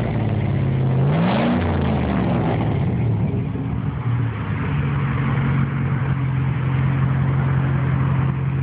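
Dodge Ram 4.7-litre V8 running loud through an exhaust with no muffler, only a resonator. A quick rev about a second in drops back, and the engine settles into a steady idle.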